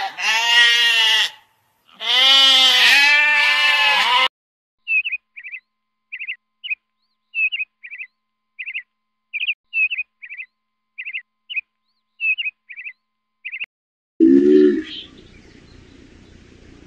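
Goat bleating twice, two long wavering bleats in the first four seconds. Then a bird chirping in short, high paired notes for about nine seconds, and near the end one short low call.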